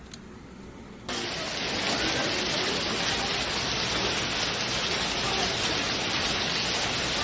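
Hailstorm: a dense, steady hiss of hail pelting down. It starts abruptly about a second in, after a quieter stretch with a few faint clicks.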